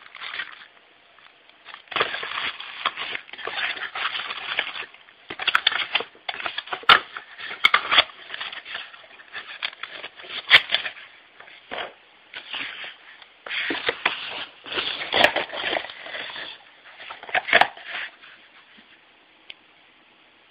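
Irregular crackling and rustling from something being handled close to the microphone, in several bursts a few seconds long, with sharp clicks among them; it dies down near the end.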